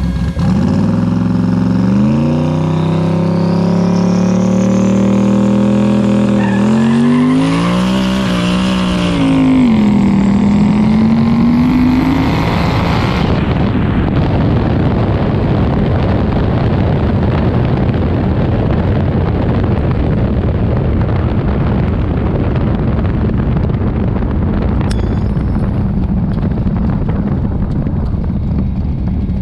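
Car engine launching from a standstill on a drag-racing pass and accelerating hard, its pitch climbing, dropping at gear changes about 7 and 9 seconds in, and climbing again. About 13 seconds in the engine tone fades as the throttle is lifted, leaving a steady rush of wind and road noise on the outside-mounted camera as the car runs on.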